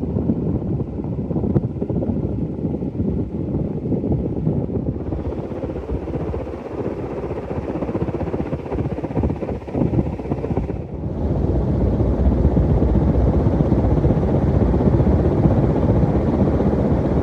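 Emerson Premium 52-inch ceiling fan running with four blades, its airflow buffeting the microphone as a low, gusty rumble. The rumble gets louder about eleven seconds in.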